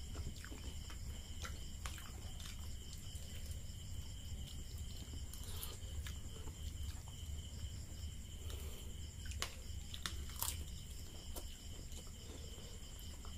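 Close-up eating sounds: chewing noodles and fuchka, with scattered sharp clicks of forks against plates. A steady high-pitched chirring and a low hum run underneath.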